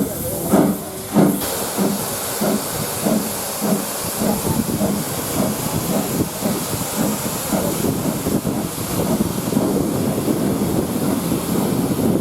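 Steam locomotive working, with strong exhaust beats and steam hiss for about the first second, then a steady run of quicker, quieter rhythmic beats as the train rolls on.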